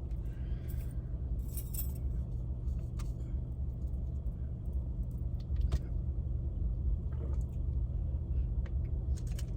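Steady low hum of a car's engine running, heard from inside the cabin, with a few light rustles and clicks scattered through it.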